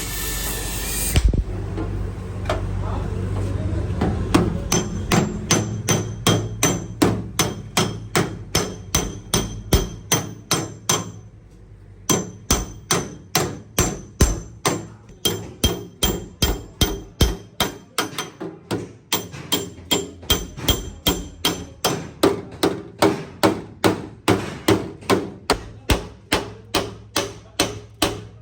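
Bodywork hammer striking the sheet metal of a damaged car door panel, one blow after another at about two to three a second, each with a short metallic ring. The blows pause briefly near the middle. A hissing noise cuts off about a second in.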